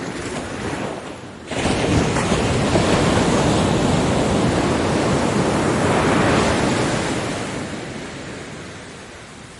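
Ocean waves on a beach: a wave breaks suddenly about a second and a half in, and its wash holds for several seconds before fading away near the end.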